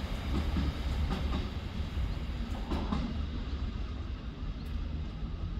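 A train running along the line: a steady low rumble with a few faint clicks, easing off slightly near the end.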